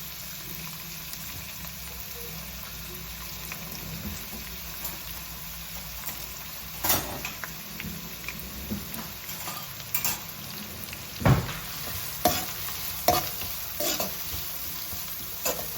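Chopped onion and green chillies sizzling in hot oil in a kadai. From about seven seconds in, a spoon stirring them knocks and scrapes against the pan at irregular intervals.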